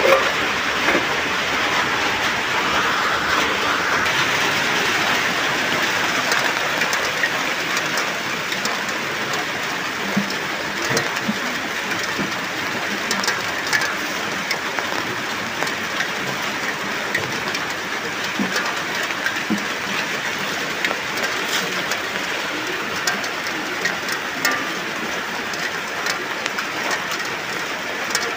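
Steady rain falling: an even hiss with scattered drips and small ticks. There is a brief clank at the very start.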